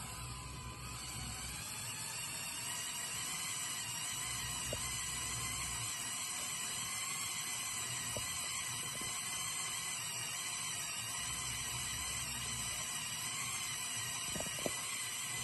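Lego Technic tractor's electric motors and plastic gear train running with a steady high whine, a low hum rising and falling under it, and a few light clicks.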